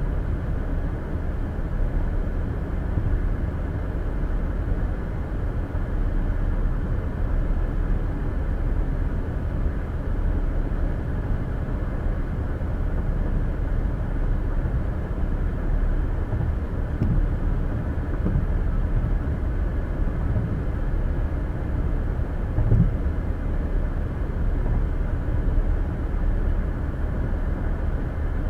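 Steady low road noise of a car driving at highway speed: tyre and engine rumble heard from inside the cabin.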